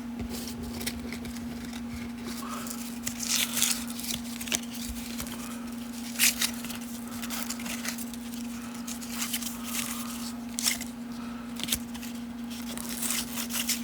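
Baseball cards being handled and laid out one by one: irregular short crisp rustles, slides and light taps, over a steady low hum.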